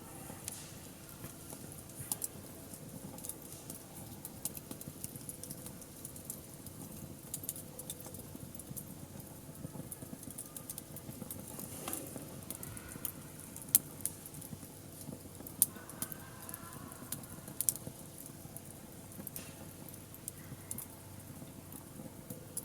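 Wood fire crackling steadily, with scattered sharp pops. A few louder snaps come in the second half.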